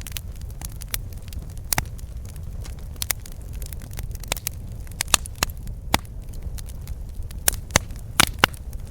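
Campfire burning: a low steady rumble of flames with irregular sharp crackles and pops from the burning wood, the loudest pops coming in the second half.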